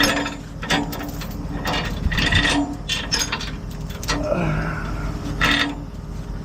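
Knocks, clatter and rubbing close to the microphone over the steady hum of a running truck engine, with a short falling groan about four seconds in.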